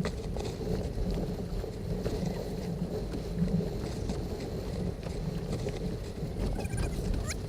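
A boat's engine running steadily with a low rumble and hum, with wind buffeting the microphone.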